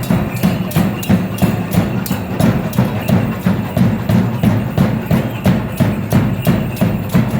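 Danza drumming: a steady, fast beat of about four strokes a second, with sharp percussive clacks over it.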